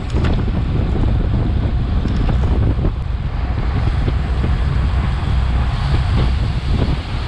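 Steady, loud wind noise buffeting an action camera's microphone on a bicycle ridden at racing speed, with a low rumble from the road underneath.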